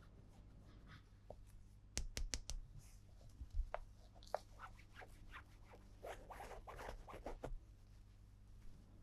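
Hands handling a toy and its packaging: a quick run of about four sharp clicks about two seconds in, then scattered small clicks and short scraping rustles.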